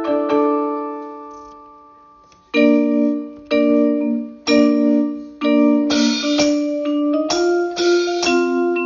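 Piano playing: a chord rings and dies away, then after a short gap about two and a half seconds in, chords are struck roughly once a second, coming faster near the end.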